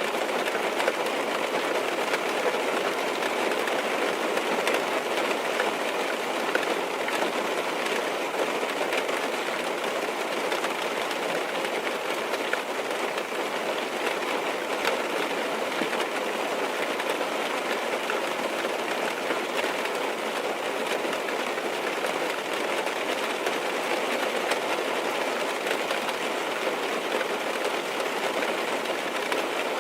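Steady rain on a car's roof and windows, heard from inside the car as an even wash with faint scattered taps.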